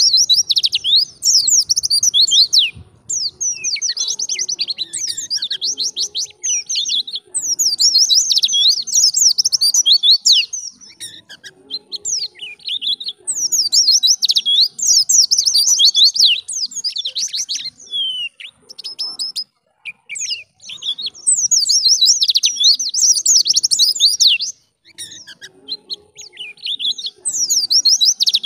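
White-eye (pleci) singing a fast, high-pitched chattering song made of rapid quick notes. It comes in bursts of a few seconds with short pauses between them.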